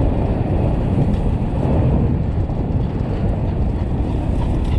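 Steady wind rumble and tyre noise from riding an electric dirt bike along a dirt trail, heard on a helmet-mounted microphone. There is no engine sound, only an even, low rush.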